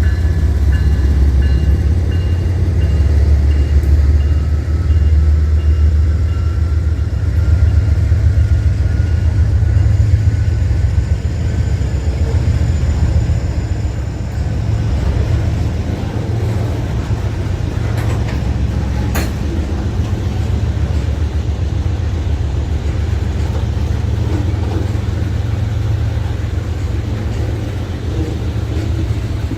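A train rolling past with a steady, loud low rumble.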